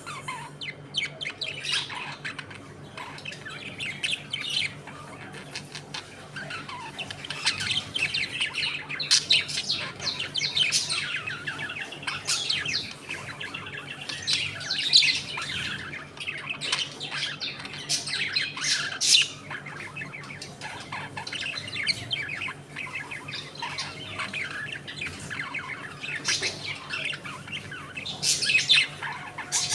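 A flock of budgerigars chattering, with many overlapping chirps and squawks, over a faint steady low hum.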